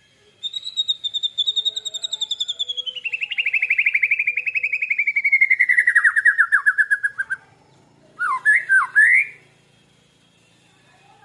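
A caged bird singing one long, fast trill that slides down in pitch over about seven seconds, followed about a second later by a short warbled phrase.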